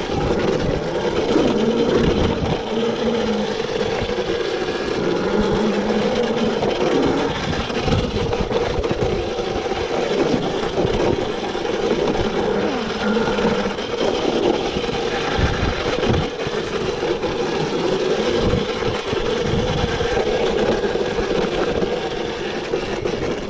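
Yozma IN10 electric dirt bike riding along a rough trail: a steady electric drivetrain whine that rises and falls with the throttle, over uneven wind buffeting and bumps.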